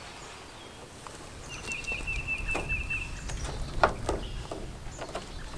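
A bird gives one short, high, quickly repeated trill about one and a half seconds in. A few light clicks and knocks sound over a low rumble, the strongest about four seconds in.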